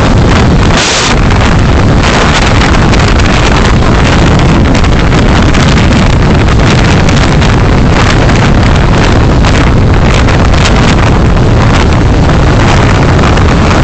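Loud, steady wind and road noise of a vehicle being driven, with wind buffeting the microphone and a brief hissier gust about a second in.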